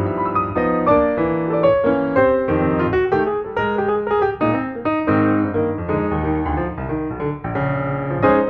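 Background piano music: a steady run of notes over chords.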